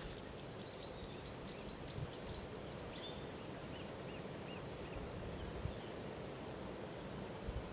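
Bird calls over a steady outdoor background: a rapid run of high ticking notes, about six a second for about two seconds, then a few short, separate chirps.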